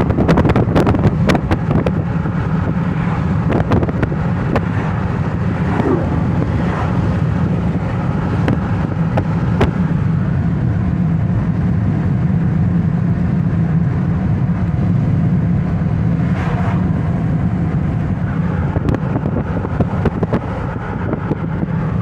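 Moving vehicle: steady low engine and road noise with wind on the microphone, and a few sharp rattles or knocks in the first seconds.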